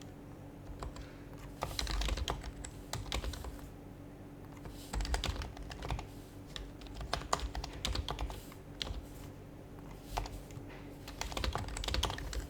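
Typing on an HHKB Professional HYBRID Type-S keyboard, whose silenced Topre electrostatic-capacitive switches give soft, muted keystrokes. The typing comes in three quick spurts with short pauses between them.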